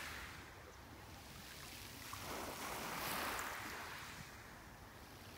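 Small sea waves breaking and washing onto a beach, one wash building to a peak about halfway through and then ebbing.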